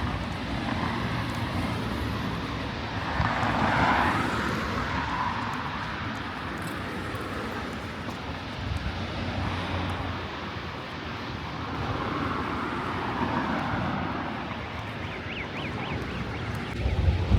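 Passing motor traffic: a steady rush of engine and tyre noise that swells twice, about three seconds in and again around twelve seconds in.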